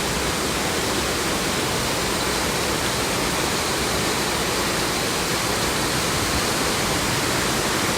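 Heavy rain pouring down steadily, a dense, even hiss of water with no letup.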